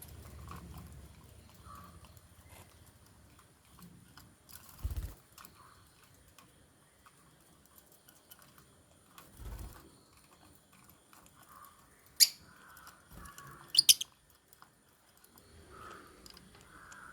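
Lovebirds chirping at a cage: a single sharp chirp about twelve seconds in and a quick pair of sharp chirps just after, among faint scattered clicks. Two dull knocks come earlier.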